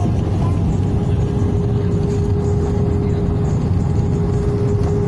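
Steady cabin noise inside an Airbus A320 airliner: a loud low rumble with a steady hum that holds unchanged throughout.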